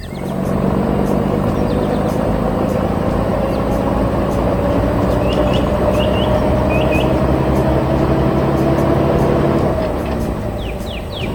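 Heavy vehicle engine running steadily, its pitch rising slowly, easing off a little near the end. A few short bird chirps come in around the middle and again near the end.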